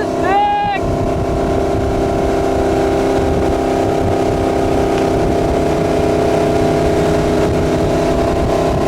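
Centurion Fi25 wake boat's inboard engine under way: a brief dip and recovery in pitch about half a second in, then a steady high note at constant speed while towing a rider.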